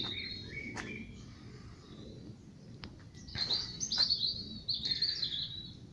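Small songbirds chirping: a few faint notes at first, then a busier run of quick, high chirps in the second half.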